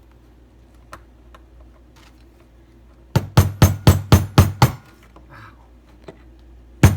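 Hammer striking a nail to punch holes through a folded dog-door flap. A quick run of about seven sharp blows, roughly four a second, starts about three seconds in, and a second run begins right at the end.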